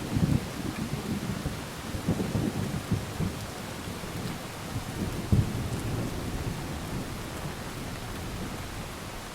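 Thunder rumbling low and dying away over steady heavy rain, with a few louder low crackles about two, three and five seconds in, then gradually fading.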